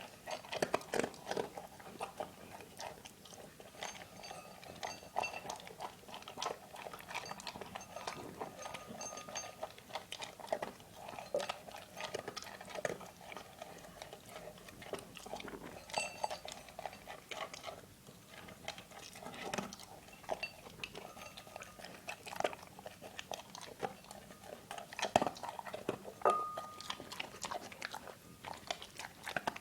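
Dog eating, with irregular crunching and chewing of its food.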